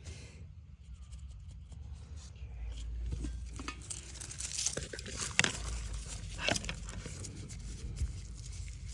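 Rustling and crinkling handling noises with scattered sharp clicks, busiest in the middle, over a low rumble.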